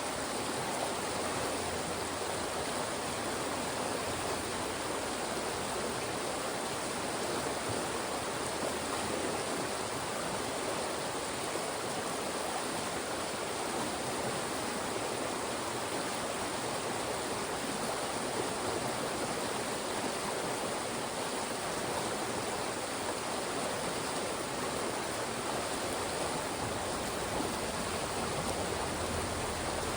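Fast-moving mountain stream rushing steadily over and through rocks, a constant even rush of water.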